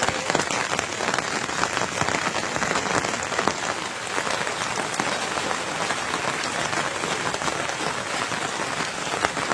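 Steady rain falling, an even dense hiss made up of many tiny drop strikes.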